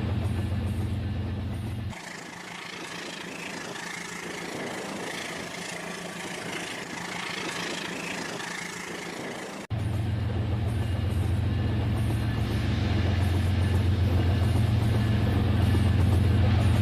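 Toy train set running with a steady low motor hum. The hum cuts off suddenly about two seconds in, giving way to a quieter, higher hiss, then comes back abruptly near ten seconds and grows a little louder.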